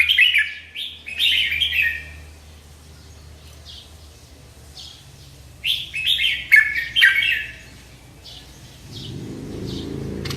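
Merbah lekir, a bulbul, singing two short bursts of quick falling notes about five seconds apart, with fainter chirps in between. A low hum comes up near the end.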